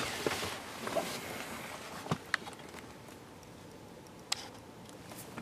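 A few faint, sharp clicks, three in all, over a low steady hiss.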